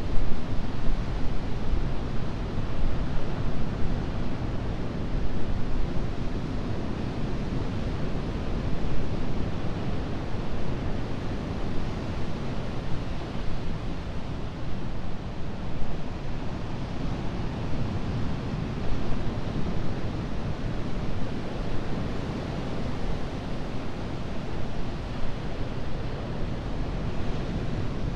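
Atlantic ocean surf washing onto the shore: a continuous rushing wash that swells and eases every few seconds.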